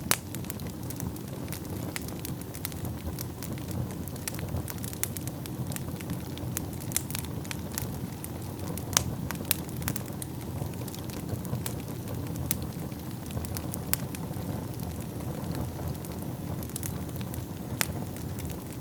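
Wood fire burning in a fireplace: a steady low rumble of flames with many sharp, irregular crackles and pops of burning logs.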